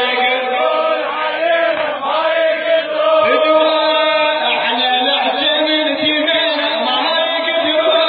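A male voice chanting an Arabic nasheed, a continuous melodic vocal line with no break.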